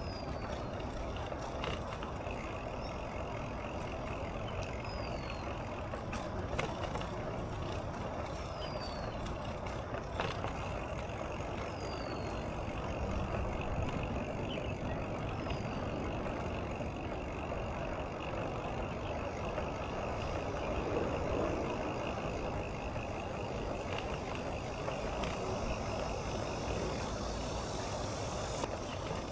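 Steady low rumble of outdoor road ambience during a bicycle ride, with passing traffic. A bird gives a short falling chirp about every four seconds through the first half.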